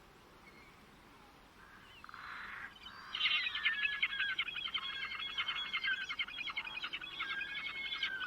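A songbird singing a long, fast twittering song that begins about three seconds in, after a faint start.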